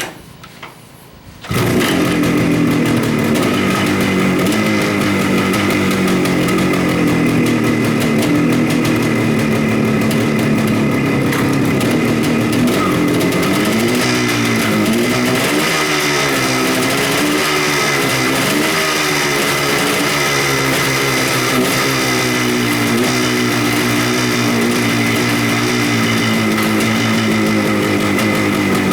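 Suzuki T500 (GT500) air-cooled two-stroke parallel-twin engine starting suddenly about a second and a half in and then running steadily. About halfway through the throttle is blipped several times, the pitch rising and falling with each rev, before it settles back to a steady run; it revs up cleanly.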